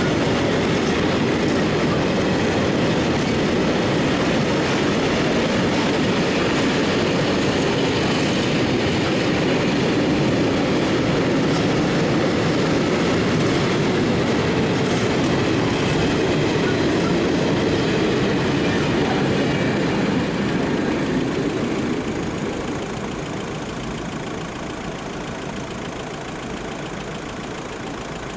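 A train rolling over a level crossing: a steady rumble of wheels on rail with faint clicks, which dies down about three quarters of the way through.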